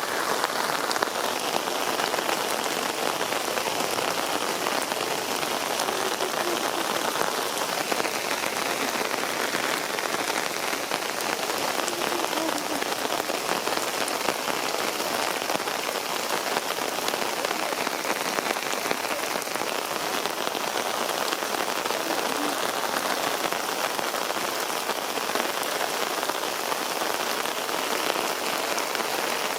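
Heavy rain pouring down steadily in a sudden summer cloudburst, an even hiss of drops hitting the ground and surfaces.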